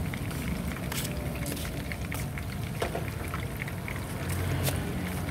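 Batter-coated shrimp fritters frying in hot oil in a pan: a steady sizzle broken by scattered sharp crackles and pops of spattering oil, over a steady low rumble.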